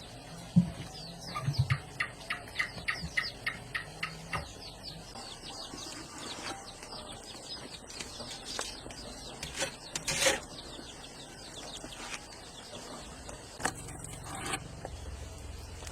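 Birds chirping: a quick run of short, repeated chirps about three a second in the first few seconds, then scattered calls, with a few sharp clicks or knocks.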